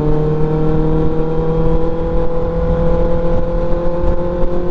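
Motorcycle engine pulling steadily at highway speed in one gear, its pitch rising slowly, over a heavy low rush of wind.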